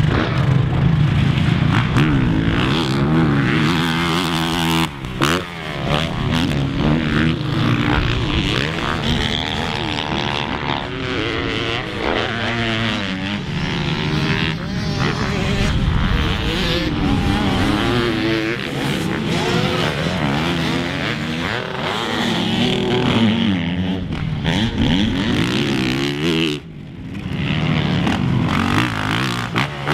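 Single-cylinder four-stroke Honda CRF450R motocross bike being ridden hard, its engine revving up and falling back again and again through shifts and throttle changes. The sound drops away briefly near the end.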